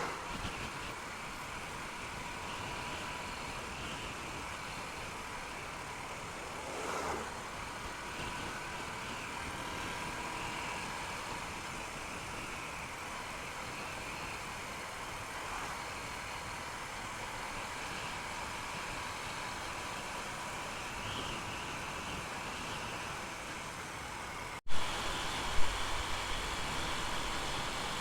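Honda Unicorn motorcycle running at a steady road speed, engine hum mixed with wind and road noise. Near the end the sound breaks off for an instant and comes back louder and deeper, with a couple of sharp thumps of wind buffeting.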